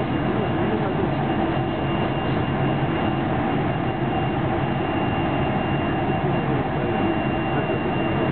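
Running noise heard inside a JR 373 series electric train carriage at speed: a steady rumble of wheels on the rails, with a thin, steady high-pitched tone over it.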